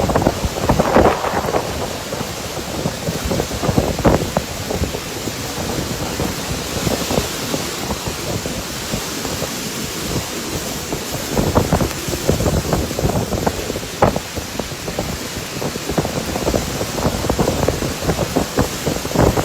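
Storm wind and rain: a steady rushing noise that surges in irregular gusts, with rain falling and the wind buffeting the microphone.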